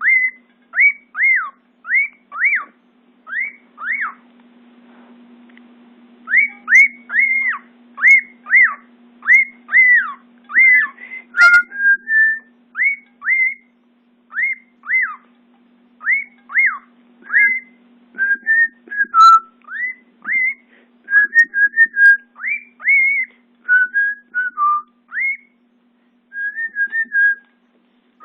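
Male cockatiel whistling his courtship song: a string of short whistled notes, most sliding down in pitch, about two a second, in runs broken by brief pauses, with some warbled notes later on.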